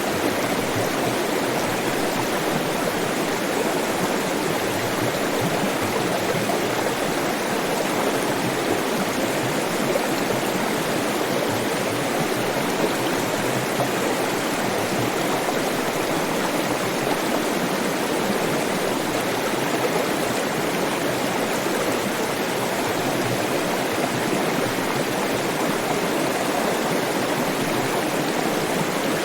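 Flowing water, a steady, even rush like a stream, with no breaks or changes.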